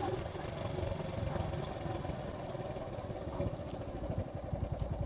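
Suzuki GN125's single-cylinder four-stroke engine running at low revs, settling into an even idle beat of about nine pulses a second near the end.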